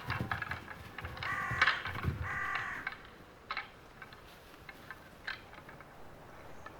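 Two harsh animal calls about a second in, each lasting around half a second, followed by a few faint knocks.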